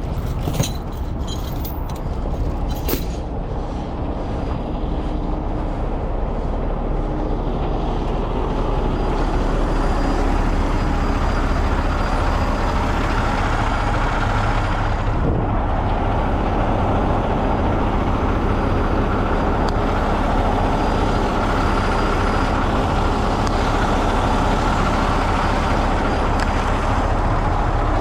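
Heavy truck engine running steadily, growing louder about eight seconds in, with a few clicks near the start.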